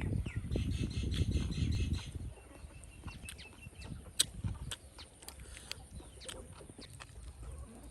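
Domestic chickens clucking and calling, with a rapid high chattering call and a low rumble in the first two seconds, and scattered sharp clicks through the rest.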